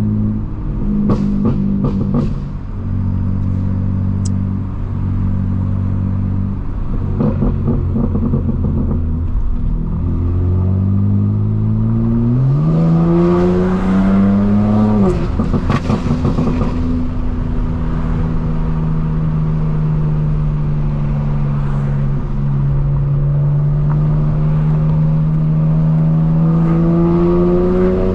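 Straight-piped, twin-turbo inline-six of a BMW M4 Competition running at low revs on the move. About halfway through it climbs steadily in pitch under acceleration, then drops abruptly with a burst of crackles. It then settles to an even note that rises slowly near the end.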